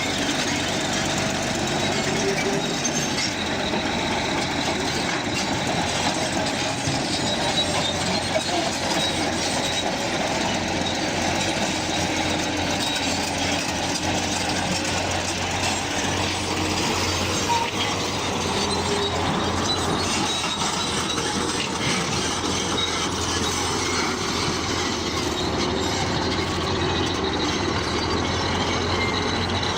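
Crawler bulldozer working, a steady mix of engine noise and the running noise of its steel tracks.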